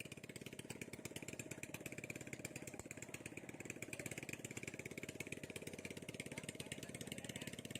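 Small engine running steadily at constant speed, a fast even chugging.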